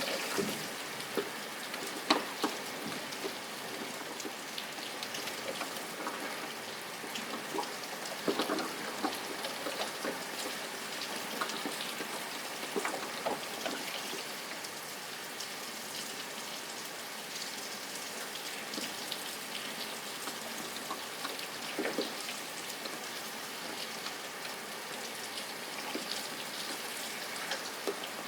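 Steady rain with many separate drops pattering and ticking on a hard surface.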